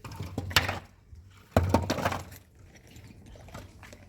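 Knocks and clinks of hard objects being handled, with two louder clusters of knocks about half a second and a second and a half in, then lighter scattered clicks.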